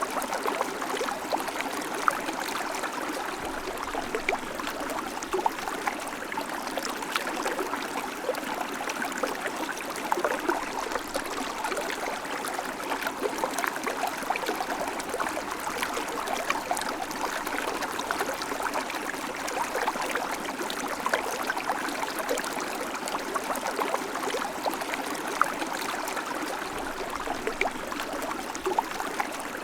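River water flowing steadily over stones, a continuous rushing with many small splashes and gurgles.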